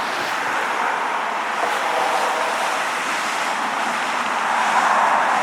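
Road traffic: a steady hiss of car tyres on the roadway, swelling a little near the end as a car passes.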